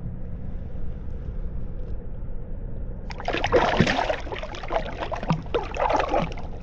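A low steady rumble, then from about three seconds in, irregular water splashing and sloshing at the surface beside a kayak.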